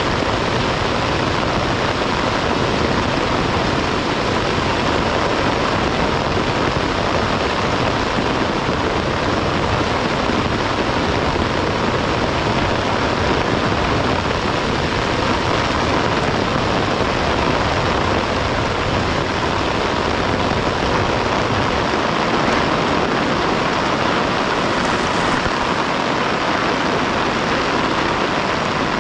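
Heavy rain falling steadily: a dense, even hiss of rain that holds unchanged throughout.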